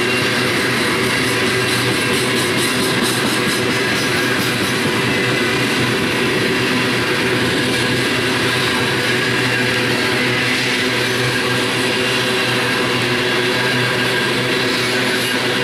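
Loaded coal hopper cars of a freight train rolling past, a steady, unbroken noise of steel wheels running on the rails.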